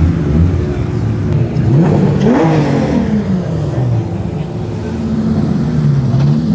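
Car engines running, with one car's engine climbing and then falling in pitch, loudest about two and a half seconds in, and a smaller rise and fall near the end.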